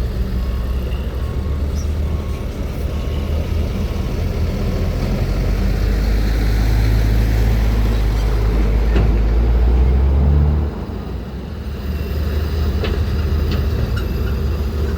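Heavy dump truck's diesel engine running with a deep rumble that grows louder until about ten seconds in, then drops off suddenly. A truck's reversing alarm beeps during the first couple of seconds.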